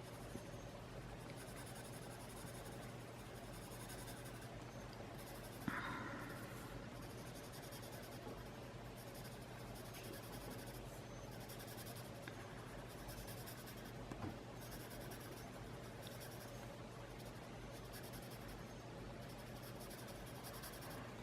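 Colored pencil shading on sketch paper, faint scratchy strokes in repeated bouts. A single soft knock about six seconds in.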